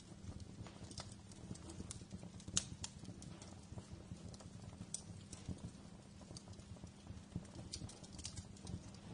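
Wood fire crackling: irregular sharp pops and snaps over a low, steady rumble of the flames, with one louder pop about two and a half seconds in.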